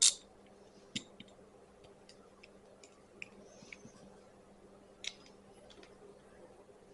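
Light scattered clicks and taps of an Allen key and the small plastic-and-metal recoil starter being handled while its center screw is worked loose. There is a louder sharp sound at the very start, then faint irregular ticks over a low steady hum.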